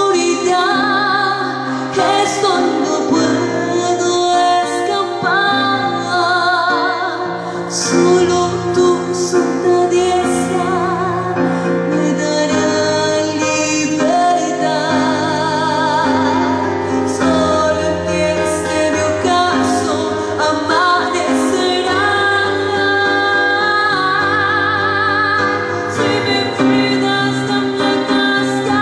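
Music: a woman singing a slow, held melody with strong vibrato over instrumental accompaniment.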